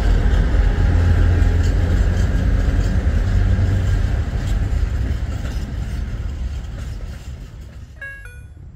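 Freight train wagons rolling past close by: a loud, low rumble of wheels on rail that fades away over the last few seconds. Music notes come in near the end.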